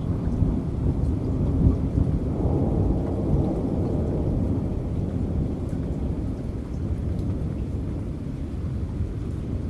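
Thunder rumbling over steady rain, loudest in the first few seconds and slowly easing off.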